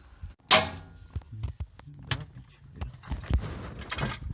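A sharp metal clank with a short ring about half a second in, then scattered lighter knocks and clicks of metal parts and tools being handled.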